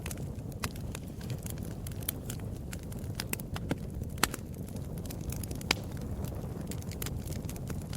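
Wood fire in a fireplace crackling, with frequent irregular sharp pops over a steady low rush of flame.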